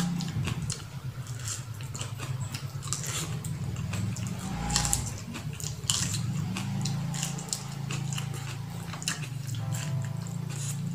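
Close-up eating sounds: a person biting and chewing a piece of corn on the cob, with many short irregular mouth clicks, over a steady low hum.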